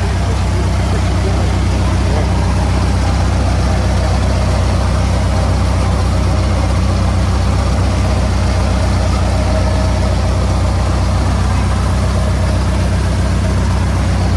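An engine idling steadily at a constant low rumble, with no change in speed.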